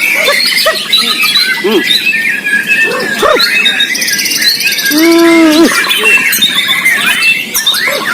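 Several caged white-rumped shamas singing at once: a dense, overlapping mix of quick high chirps, whistles and trills, with one lower, drawn-out call about five seconds in.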